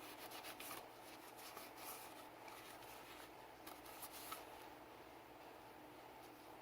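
Faint scratchy rubbing strokes on a Sig Sauer P320 pistol as it is cleaned, a quick run of them with a sharp tick after about four seconds, then quieter, over a steady low hum.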